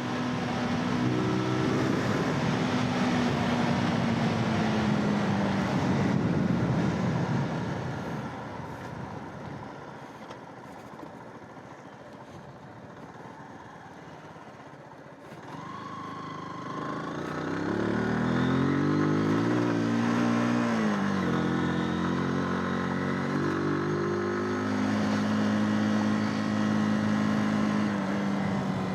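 Zontes 125 motorcycle's single-cylinder engine running on the road with wind rush. The engine note drops away and goes quieter for several seconds midway, then comes back, rising and falling in pitch as it picks up speed, and settles to a steady note.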